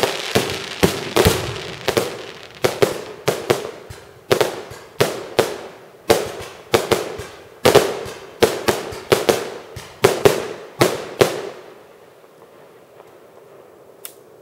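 Fireworks going off: a rapid string of sharp bangs, about two a second, each trailing off with an echo. The bangs stop about eleven seconds in, and one last bang comes near the end.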